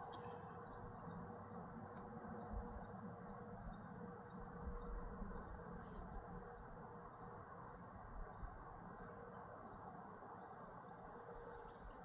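Faint steady chorus of insects, a high even trill, with a few short high chirps scattered through it over a low steady hiss.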